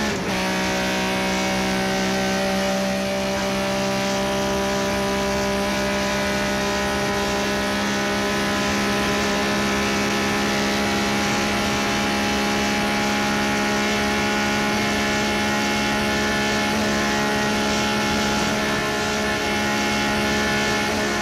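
Mazda MX-5's four-cylinder engine pulling hard at high, nearly constant revs, a steady droning note held for about twenty seconds. The note breaks briefly right at the start and again near the end, like a gear change.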